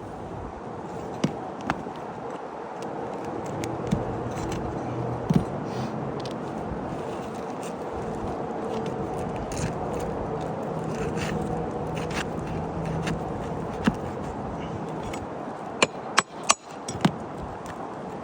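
Shingle repair work on a roof: scraping and handling with scattered sharp clicks, and a quick run of loud knocks about sixteen seconds in, over a steady low hum.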